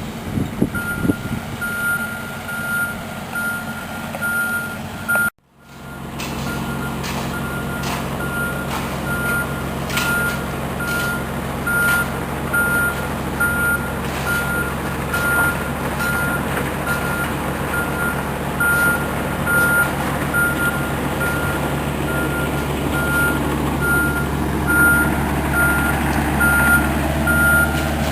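Heavy construction vehicle reversing, its backup alarm beeping steadily about once a second over the engine running. There is a brief dropout about five seconds in.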